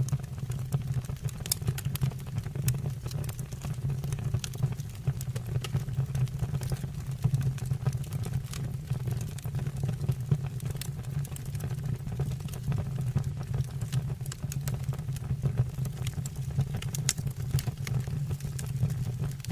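Wood fire burning in a stove or fireplace: irregular sharp crackles and pops over a steady low rumble of the flames.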